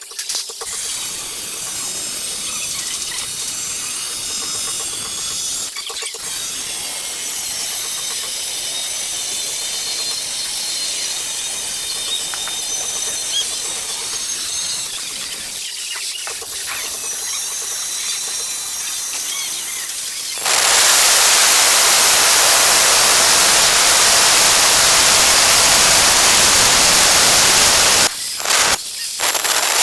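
Angle grinder cutting ceramic tile, a high-pitched squealing cut broken off briefly twice. About two-thirds of the way in it gets louder and turns to an even, harsh hiss, with short breaks near the end.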